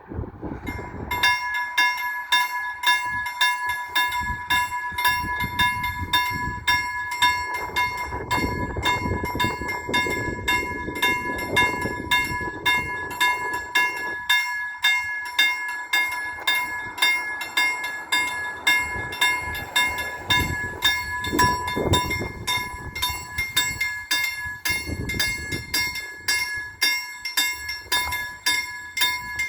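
A level crossing warning bell starts ringing about a second in and keeps striking about twice a second, signalling an approaching train. A low rumble that rises and falls runs underneath.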